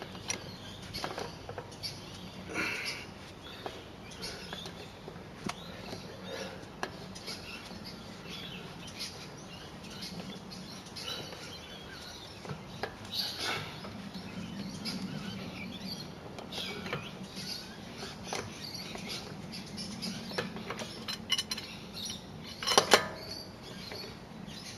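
Small metal clicks and clinks of a wheel-lock key and wrench being worked onto a car's locking wheel nut, scattered and irregular, with one louder clank near the end.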